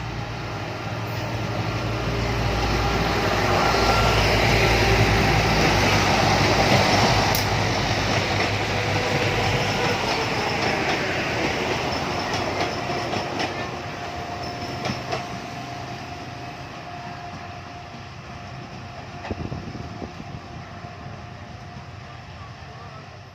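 Train passing on the track: a loud rumble builds to a peak about five seconds in, then slowly fades as the train moves away, with wheel clicks over the rail joints in the later part.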